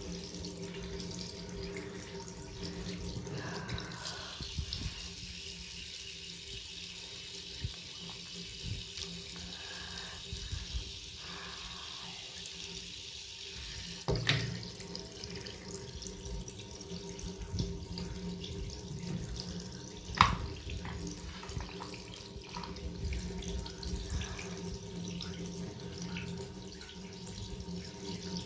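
Water running steadily from a tap into a sink, with two sharp knocks partway through, the second louder.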